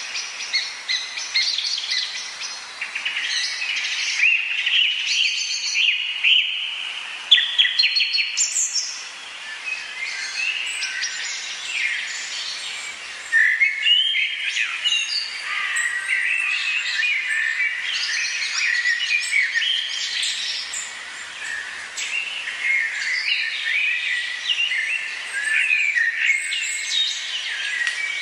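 A dense chorus of many birds singing and chirping at once, overlapping calls and trills without a pause.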